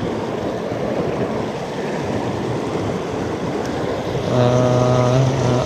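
Mountain stream water rushing steadily, with a short, flat 'hmm' from a man's voice about four seconds in.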